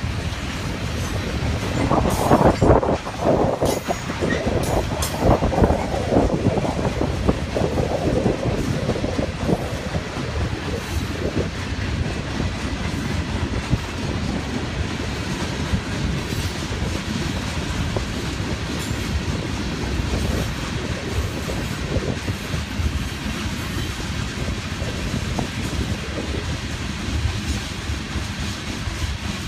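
Union Pacific manifest freight train's cars rolling past at track level: a steady rumble of steel wheels on rail with clicking over the rail joints. There are louder knocks and rattling from about two to eight seconds in, then a steadier run.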